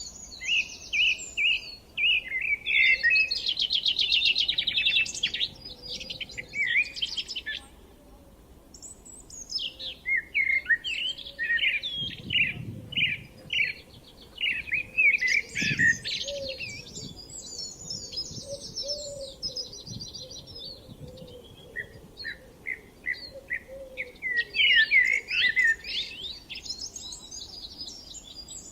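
Several small songbirds singing over one another, with quick chirps and rapid trills coming in bursts and a couple of brief lulls.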